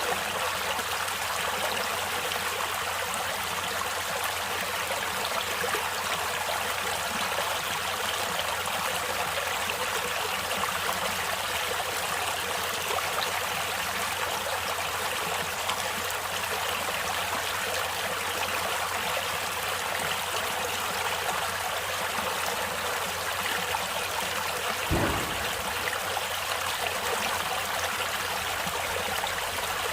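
Stream water flowing steadily, an even rush of noise that holds through. One short low thump comes near the end.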